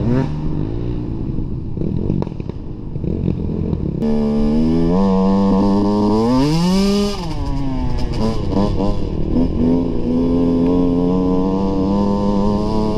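Dirt bike engine running while riding, revving up and back down about six seconds in, then holding a steady pitch. The sound changes abruptly about four seconds in.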